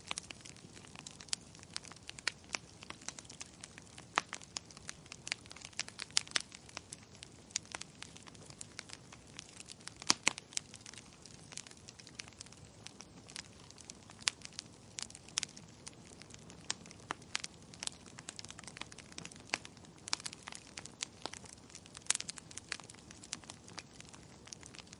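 Wood fire in a fireplace crackling, with irregular sharp pops and snaps, a few louder ones, over a soft steady hiss of burning.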